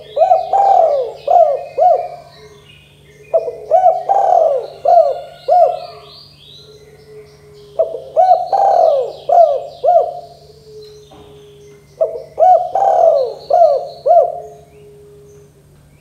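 Spotted dove cooing: four phrases of several arched coo notes, one about every four seconds, with smaller birds chirping higher and a faint low hum underneath.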